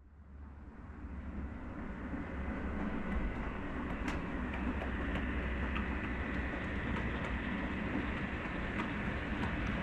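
OO gauge model train running along the track: a steady rumble with light clicking of wheels over rail joints, fading in over the first couple of seconds and then holding steady.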